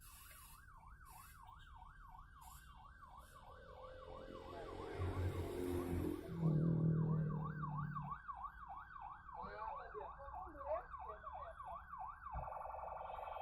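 An emergency vehicle's siren is wailing in fast up-and-down sweeps, about two and a half a second. Vehicle noise builds in the middle, with a deeper steady tone about six seconds in that is the loudest sound. Near the end the siren switches to a steadier, rapid warble.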